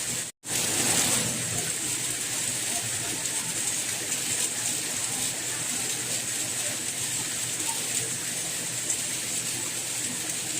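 Steady rain noise, an even hiss. It cuts out completely for an instant shortly after the start, then comes back slightly louder for a moment before settling.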